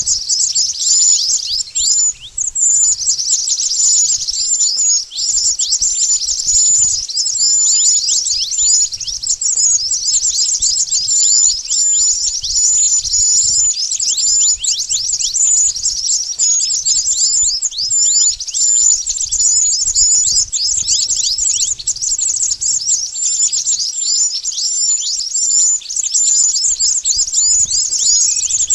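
Lure-call recording of a mantenan bird: a continuous, fast, high twittering made of quick falling notes, several a second, mixed with short high pips.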